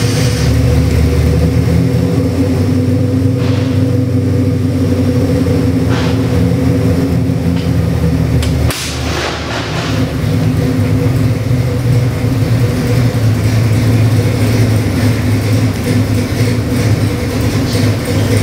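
Ford 427 Windsor stroker small-block V8 with FiTech fuel injection, running steadily just after start-up, its low note changing briefly about halfway through.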